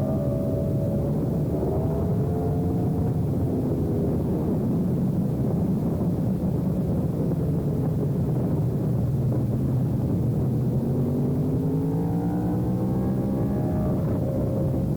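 Sport motorcycle engine running at road speed under steady rumble and rushing noise. Its revs rise, ease off, then climb again for a few seconds under acceleration.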